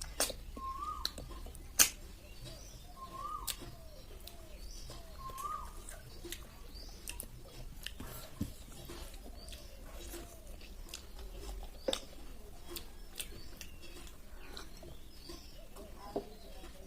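Close-up eating sounds of snail curry: sharp clicks and sucking noises as snails are eaten, the loudest clicks about 2 s and 12 s in. Short chirp-like calls repeat every couple of seconds in the background during the first half.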